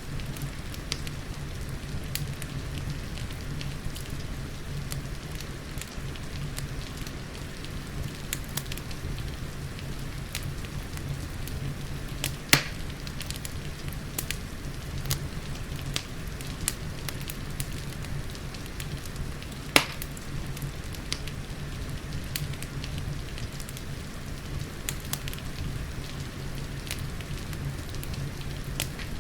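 Wood fire crackling with frequent small pops over a steady low rumble, with two louder sharp pops, about a third and two-thirds of the way through; soft rain hisses underneath.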